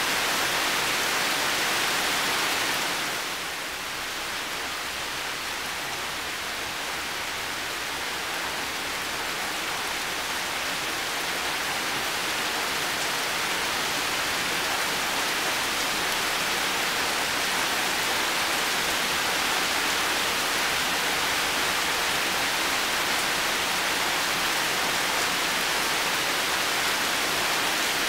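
Heavy rain falling steadily, a dense even hiss of drops; it eases slightly about three seconds in and builds back to full strength over the next several seconds.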